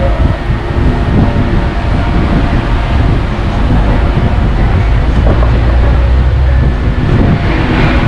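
Heavy DAF truck under way: a loud, steady low rumble of diesel engine and road noise.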